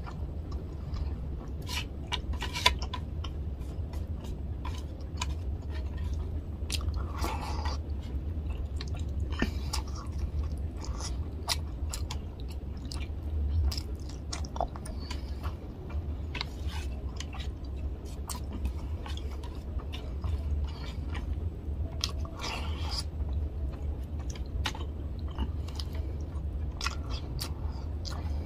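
Close-miked chewing of a mouthful of fish curry and rice, with frequent short wet clicks and smacks of the mouth. A steady low hum runs underneath.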